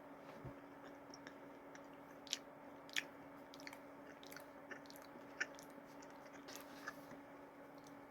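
Close-up chewing of a soft chocolate cookie topped with candy cane pieces, with a few sharp crunches and mouth clicks scattered through, over a faint steady hum.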